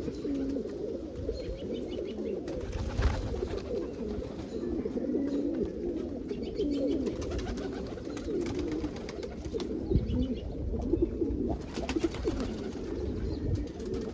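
A flock of domestic pigeons cooing continuously, many overlapping low coos, with a couple of short sharp knocks among them.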